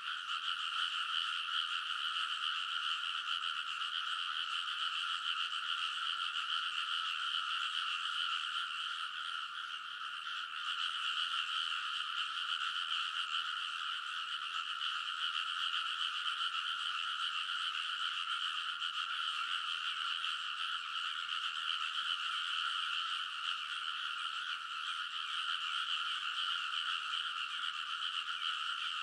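A large chorus of frogs calling in a rice paddy: many overlapping calls merge into a steady, dense din with two pitches, one higher than the other, that eases off slightly about ten seconds in.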